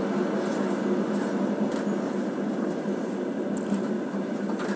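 Steady running noise of a moving passenger train, heard from inside the carriage, with a few faint ticks.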